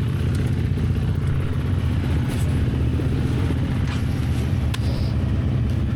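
Enduro motorcycle engine running at low, steady revs.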